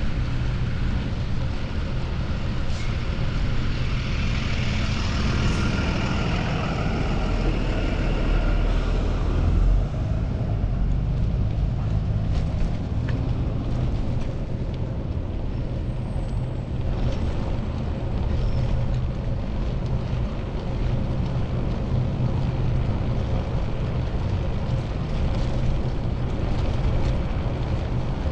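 Wind buffeting a chest-mounted action camera's microphone during a bike ride, over city traffic. A louder vehicle goes by in roughly the first ten seconds.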